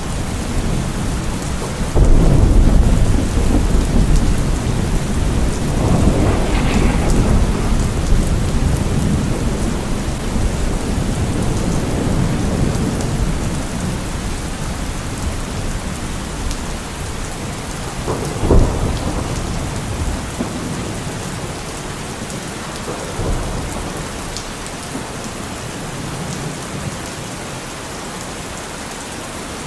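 Steady heavy rain with rolling thunder: a clap about two seconds in rumbles on and slowly dies away, and a sharper crack comes past the middle.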